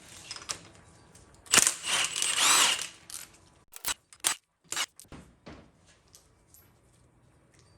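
Tool work loosening bolts on an LT1 small-block V8: a loud noisy burst lasting about a second and a half, starting about one and a half seconds in, then a few sharp metallic clicks and clinks.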